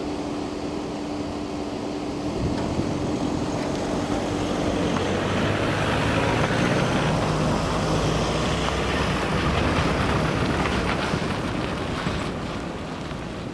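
A vehicle passing over the railway level crossing: a rumble that builds over a few seconds, holds, then fades away. A steady low hum is heard under it and stops about five seconds in.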